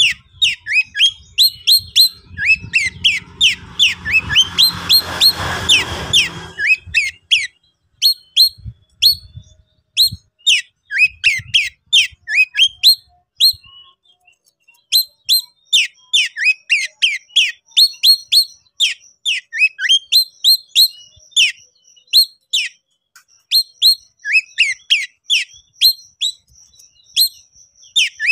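Oriental magpie-robin (kacer) singing a rapid, continuous stream of sharp falling whistled notes. For a few seconds near the start a rough rushing noise sounds under the song.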